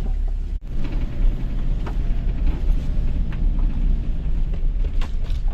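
Two-wheel-drive Toyota HiLux driving on a rough, muddy track, heard from inside the cab: a steady low engine and tyre rumble, with a few knocks from the vehicle.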